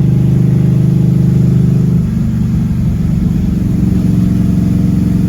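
Camaro engine running steadily; its note drops slightly about two seconds in.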